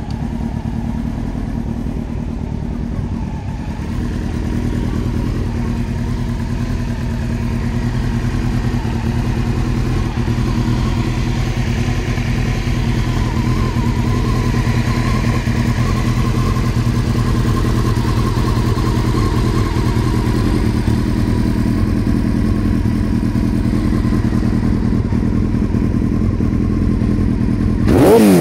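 Honda CBR900RR Fireblade's inline-four engine idling steadily through carbon-fibre silencers, then blipped near the end, the revs rising and falling quickly.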